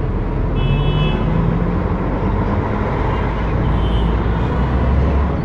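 City street traffic: a steady rumble of engines and tyre noise from passing cars and heavier vehicles. A brief high-pitched tone comes about half a second in, and the low rumble grows stronger near the end.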